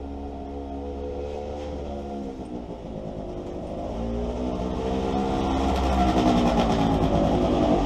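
Kohler Command 25 V-twin engine of a Steiner zero-turn mower running with a steady low hum, its pitch shifting slightly and growing louder over the second half.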